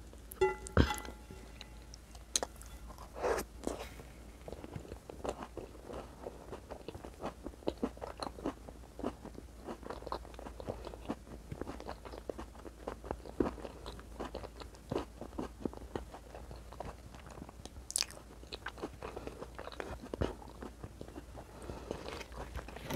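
A person chewing bread dipped in a stew of white beans and meat, heard as a steady run of small mouth clicks, with a few sharper clicks just under a second in and one about three-quarters of the way through.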